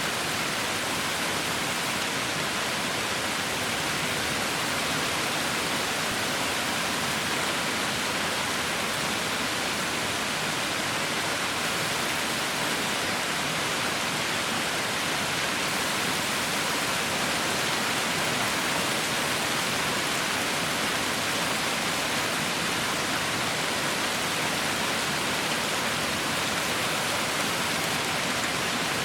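Heavy rain falling steadily, a constant even hiss with no distinct drops or breaks.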